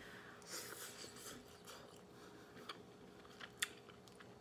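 Faint chewing of a mouthful of food, with a few soft clicks of a fork against the bowl.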